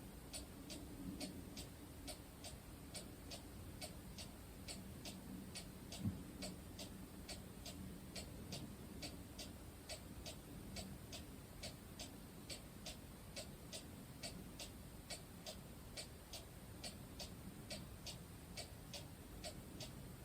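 A clock ticking faintly and steadily, about two ticks a second, with one soft thump about six seconds in.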